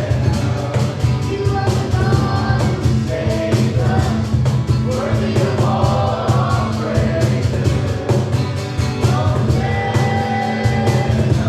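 Live worship band playing a song, a voice singing over drums and bass with a steady beat.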